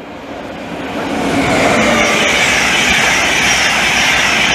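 InterCity 225 train, a Class 91 electric locomotive with Mark 4 coaches and driving van trailer, passing through the station. Its noise builds over the first second and a half, then stays loud and steady.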